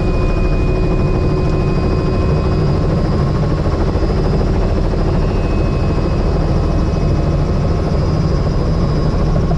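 Helicopter running steadily, a loud even drone with rapid rotor-blade pulsing in the low end.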